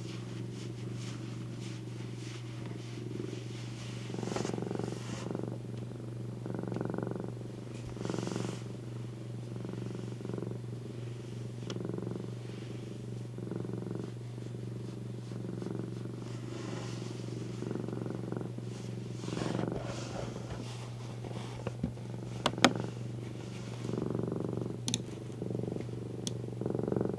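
A domestic cat purring, the purr swelling and easing in a slow rhythm every second or two with its breathing, over a steady low hum. A few sharp clicks come near the end.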